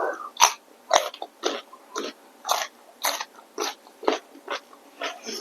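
Close-miked chewing of food, with wet mouth smacks coming about twice a second.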